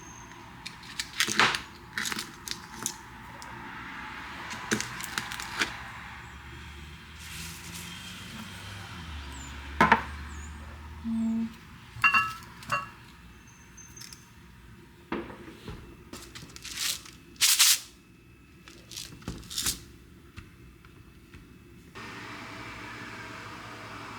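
Scattered knocks, clicks and clatter of kitchenware and food being handled, with brief pauses between.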